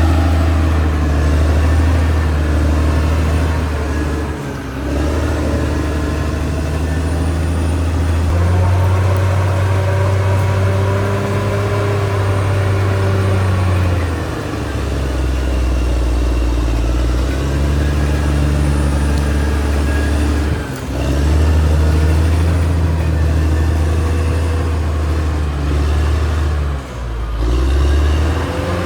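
Caterpillar D6R XL bulldozer's diesel engine running under load, its pitch rising and falling as the load changes, with brief dips in level about four times.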